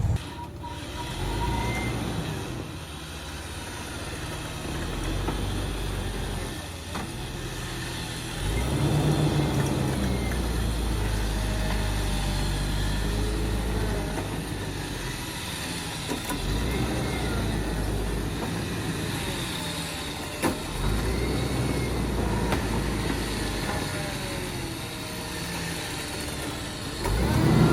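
An off-road vehicle's engine running, its low rumble swelling and easing several times.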